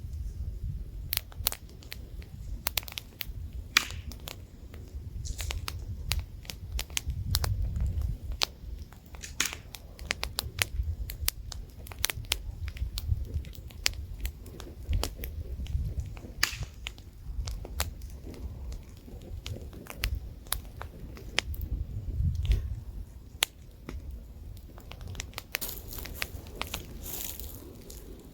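Wood campfire crackling, with irregular sharp snaps and pops over a low rumble of wind. A brighter hiss rises near the end.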